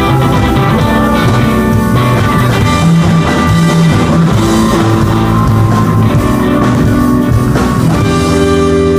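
Rock band playing, with guitar and drum kit.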